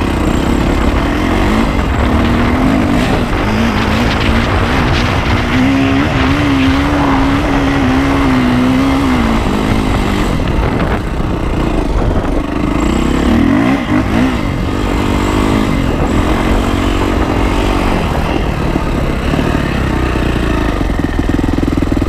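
Yamaha YZ450F's single-cylinder four-stroke engine revving up and down under hard riding, its pitch rising and falling again and again.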